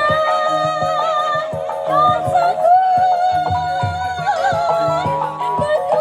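Javanese gamelan music accompanying an ebeg horse dance: a wavering melody line held over sustained struck tones and regular drum strokes.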